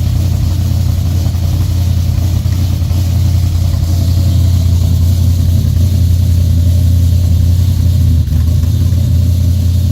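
A police pursuit vehicle's engine idling steadily on a cold start, with a brief dip in level about eight seconds in.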